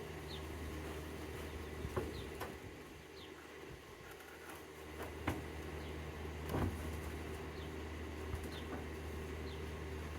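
Honeybees humming steadily around an open hive, with a few sharp knocks of wooden hive parts being handled and short high chirps.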